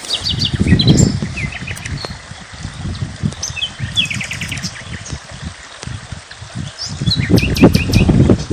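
Small birds chirping, with short calls and quick trilled runs from several birds, over an irregular low rumble. The rumble swells about half a second in and again near the end.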